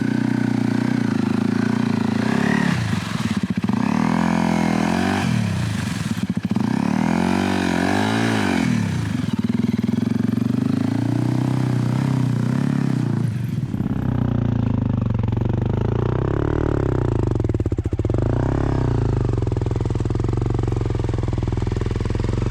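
Honda CRF250L single-cylinder motorcycle engine running under changing throttle, its revs rising and falling again and again. About two-thirds of the way through the sound turns deeper and steadier.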